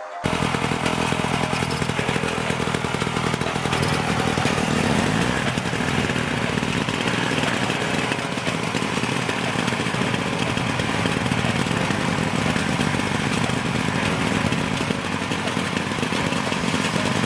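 Motorcycle engine running steadily with an even, rapid exhaust beat.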